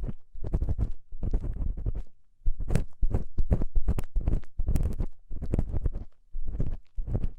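Ear-cleaning tool scraping and rubbing inside an ear right at the microphone: a fast run of short strokes with a muffled low rumble, easing off briefly about two seconds in and again near six seconds.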